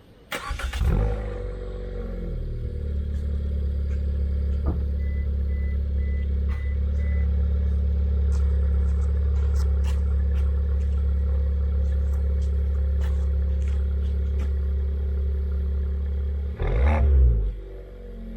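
Suzuki Swift Sport ZC33S's 1.4-litre turbo four-cylinder, breathing through a SACLAM aftermarket muffler, starting up with a rev flare about a second in, then settling to a steady, deep idle. Near the end the engine gives a short, loud throttle blip.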